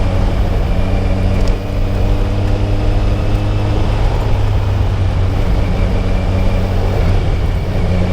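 Kawasaki Ninja 1000SX's inline-four engine running steadily under way, over wind and tyre noise on freshly laid tar. The engine note shifts a little about four seconds in.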